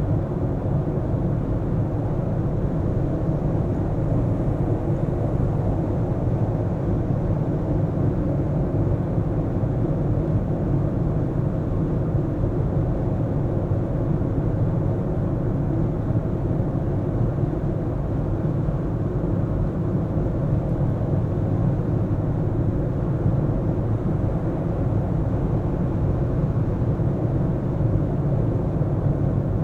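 Car driving through city streets: a steady low rumble of engine and tyre-on-road noise that stays even throughout.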